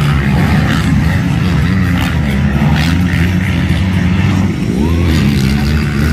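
Motocross bike engines running and revving on the track. One engine's pitch rises and falls about five seconds in.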